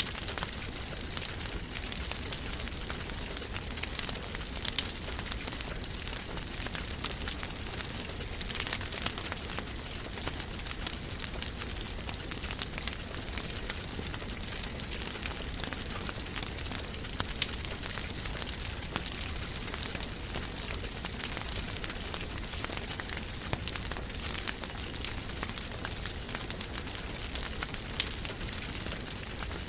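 Wood fire burning in a fireplace, a steady hiss dotted with many small crackles and a few louder, sharper pops.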